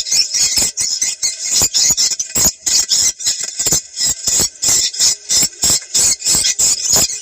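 Recorded edible-nest swiftlet calls: a rapid, high chirping twitter of short notes, several a second, of the kind played to lure wild swiftlets to a site.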